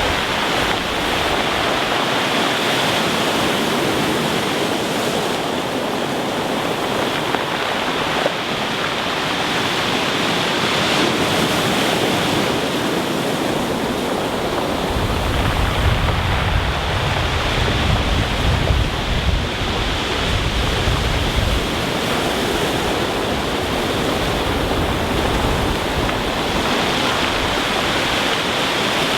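Rough sea surf breaking and washing over a pebble beach, a steady dense roar of water and rolling stones. A deeper low rumble swells for several seconds past the middle.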